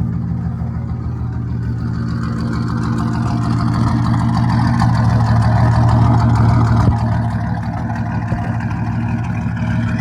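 Turbocharged 4.9-litre Ford 300 inline-six engine of a 1974 Ford F100 running at a steady speed. Its sound grows louder through the middle and falls back suddenly about seven seconds in.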